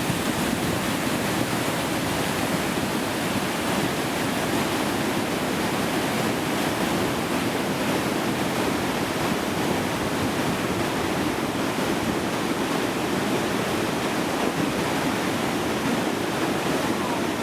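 Creek in flash flood: a loud, steady rush of churning floodwater, heaviest in the low-mid range, that cuts off abruptly at the very end.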